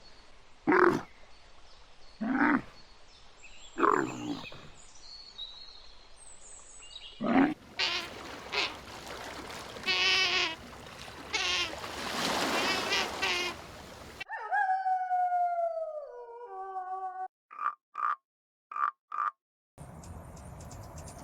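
Several different animal calls one after another. First come three short calls about a second and a half apart, then a longer, harsher stretch of repeated calls with noise behind them. A long call falls in pitch, and several short high pips follow.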